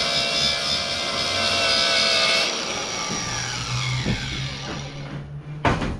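A grinder grinding down the riveted head of a steel #40 roller chain pin, to break the chain. It cuts out about two and a half seconds in and its whine falls away as the disc spins down, and a single sharp clank follows near the end.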